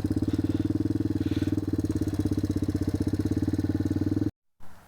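The single-cylinder engine of a 1987 Yamaha TW200 dirt bike running steadily at idle, with a rapid, even pulse at a constant pitch. The sound cuts off abruptly near the end.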